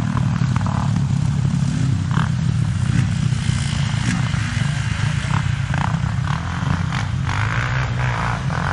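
Motorcycle engine running steadily at speed, with wind and road noise over it and a few light clicks and rattles.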